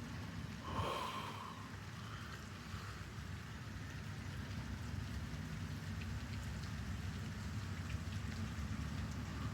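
Light rain falling steadily, over a low steady rumble, with a brief higher-pitched sound about a second in.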